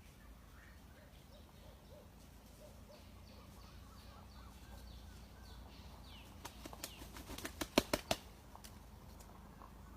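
A junglefowl rooster flapping its wings: a quick run of about ten sharp wing-beats about two-thirds of the way in. Faint small-bird chirps come before and after.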